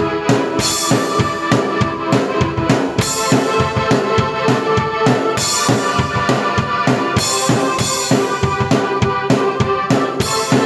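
Drum kit and keyboard played at once by one player: a busy, driving beat of kick and snare with cymbal crashes every couple of seconds, over held keyboard notes.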